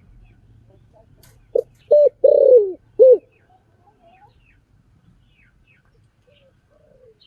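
Spotted dove cooing: one phrase of four notes starting about one and a half seconds in, the third note long and falling in pitch, the last one short.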